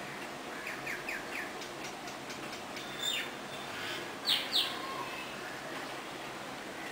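Small birds chirping: a quick run of four short falling notes, then a single falling note, then two louder short chirps a little past halfway, over a steady hiss.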